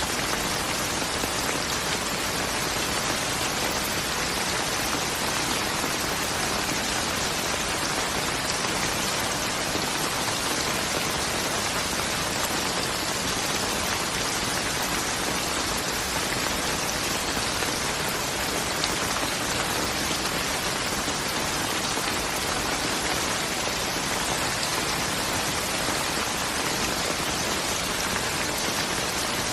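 Steady, dense rain falling, an even hiss of drops with no distinct events.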